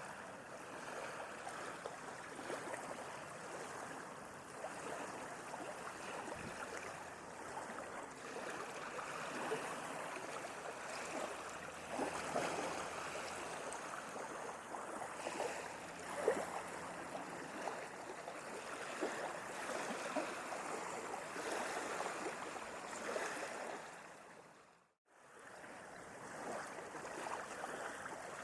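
Sea water washing and splashing continuously in an even wash of noise. Near the end it fades briefly to silence and fades back in.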